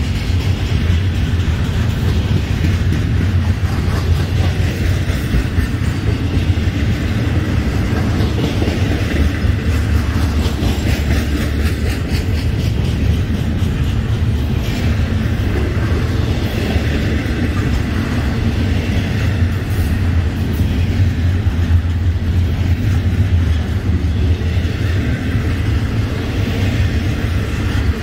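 Florida East Coast freight train of double-stacked container well cars rolling past at close range, a steady low, continuous sound of wheels on rail that stays even in level throughout.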